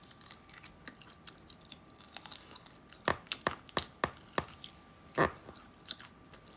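A person chewing food close to the microphone: irregular short mouth clicks and smacks, several together in the middle and a louder one about five seconds in.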